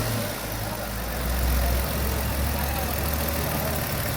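2008 Kia's petrol engine idling steadily just after being started, with fresh spark plugs fitted to cure a P0300 random misfire; the idle swells slightly about a second in, then settles.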